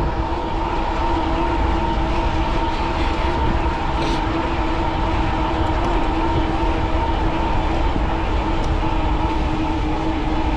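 Steady riding noise of a fat-tyre e-bike at about 20 mph: a low wind-and-tyre rumble with a steady, unchanging whine over it.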